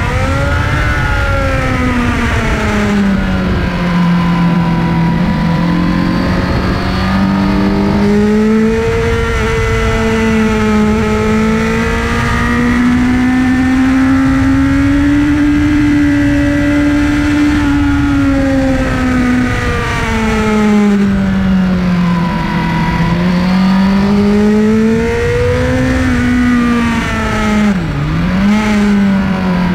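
Honda sportbike engine heard from on board at track speed, its note rising and falling as the rider accelerates and eases off through the corners, with a sharp dip and recovery near the end, over a constant rush of wind and road noise.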